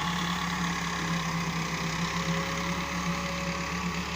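Tractor engine running steadily, a continuous low hum.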